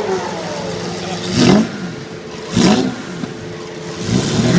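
A car engine revved twice in short blips about a second apart, with steady engine noise underneath.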